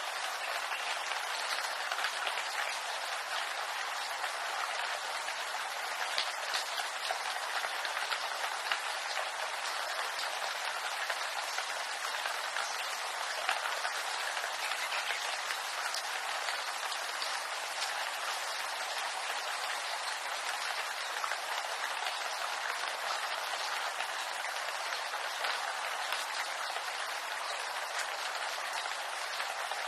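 Steady rain falling on bamboo foliage: an even hiss of many small drop impacts that holds unchanged throughout.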